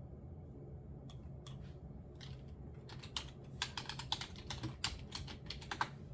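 Typing on a computer keyboard: a few scattered keystrokes, then a quick run of keys from about halfway in.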